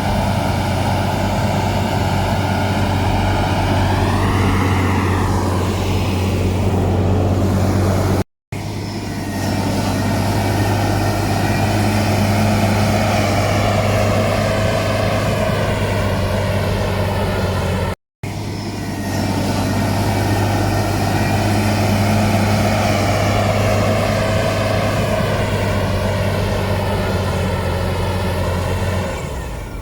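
Heavy diesel engine of earthmoving machinery running hard under load, its pitch rising and falling as the throttle changes. The sound drops out twice for a moment.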